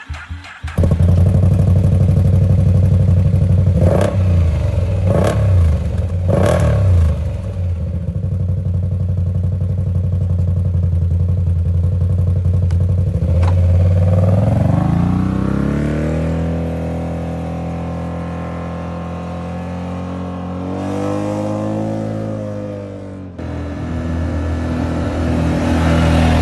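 Can-Am Outlander G3 ATV engine and exhaust, coming in suddenly and then given three quick throttle blips. It settles to a steady run, revs climb and hold a higher pitch about halfway through, then rise and fall again before a sudden break, after which it runs steadily once more.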